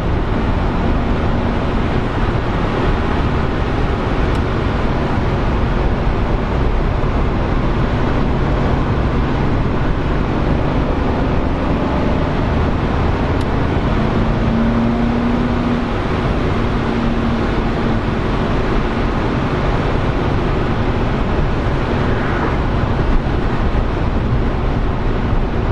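Mercedes-AMG C63's 4.0-litre twin-turbo V8 and tyres heard while the car drives at a steady pace, a continuous even road-and-engine rumble with a faint low engine hum.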